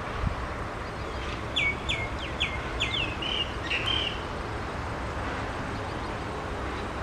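A bird calling: a quick run of about five short, sharp high notes starting about a second and a half in, ending in a brief trill, over a steady low background rumble.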